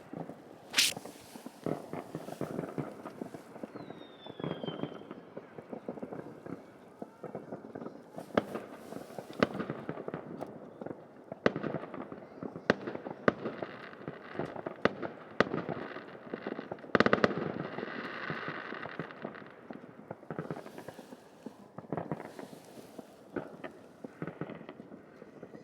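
Fireworks going off: an irregular string of sharp bangs and pops, with a falling whistle about four seconds in. A loud bang just past the middle is followed by a stretch of crackling.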